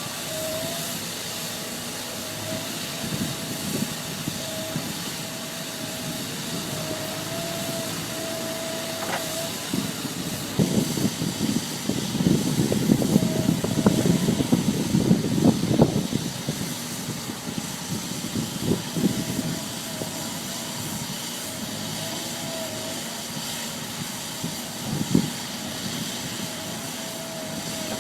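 Heavy machinery running with a hiss and a thin, wavering whine, growing louder and rougher for a few seconds in the middle.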